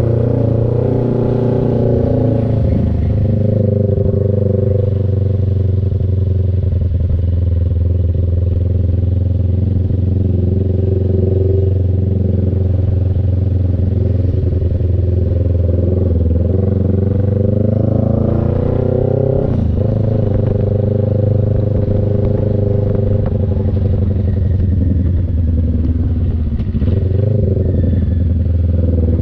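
CF Moto NK400's two-cylinder engine running steadily while riding. About two-thirds of the way in its note climbs for a couple of seconds, then drops sharply.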